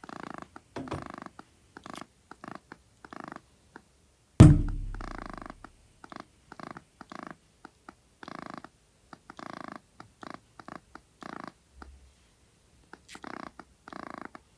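A strange noise made over and over in short, uneven bursts, something like a purring or snoring sound. About four seconds in comes one loud boom that dies away slowly.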